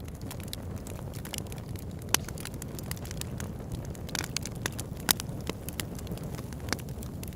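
Campfire burning with a steady low rush under dense crackling, with sharp wood pops throughout; the two loudest pops come about two seconds in and about five seconds in.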